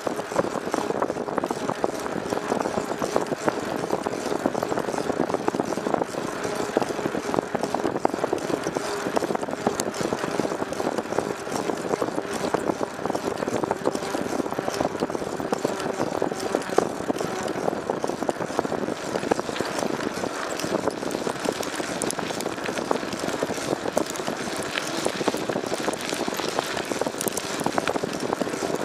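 A vehicle engine running steadily at an even speed, with a constant drone and light rattling clicks.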